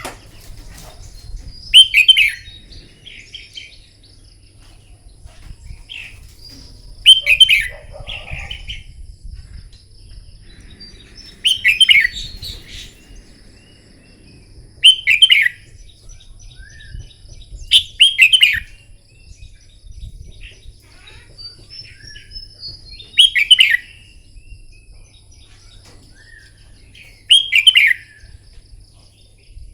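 Red-whiskered bulbul singing: short, loud song phrases repeated every three to five seconds, seven in all, with softer chirps between them.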